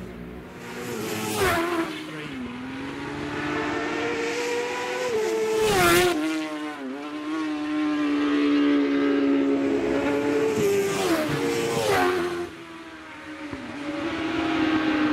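Classic superbike racing motorcycles going past at full speed one after another, each engine note rising as it nears and falling as it passes. Three bikes pass close, the loudest about six seconds in, with more engines still heard between them.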